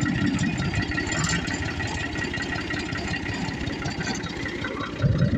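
Tractor engine running steadily with a rapid low chugging, growing louder near the end.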